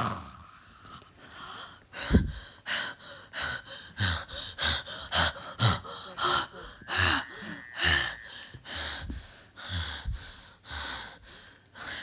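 Footsteps crunching on gravel, about two steps a second, each with a dull thump under the crunch.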